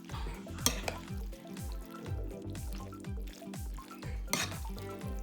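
Background music, over which a spoon is stirring macaroni salad in a bowl, scraping lightly, with a couple of sharp clinks.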